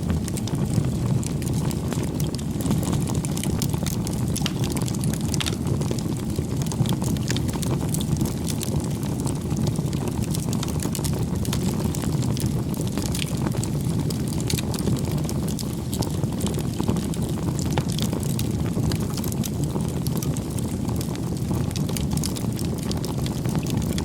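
Wood fire burning with a steady low rumble and frequent short, sharp crackles and pops.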